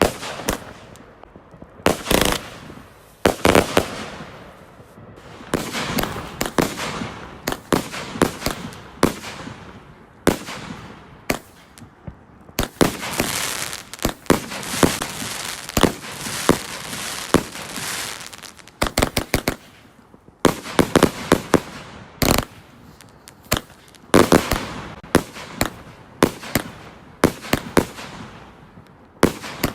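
Fireworks going off: repeated sharp bangs, with a dense stretch of crackling about 13 to 18 seconds in and quick clusters of bangs after it.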